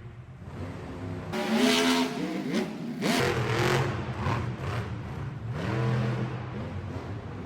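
Monster truck engine revving, rising and falling in pitch several times, with a loud blast of noise about two and three seconds in.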